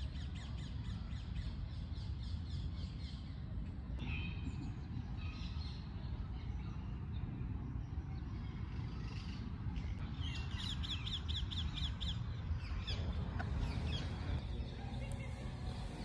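Birds calling, with a quick run of about seven high notes about two-thirds of the way in, over a steady low rumble.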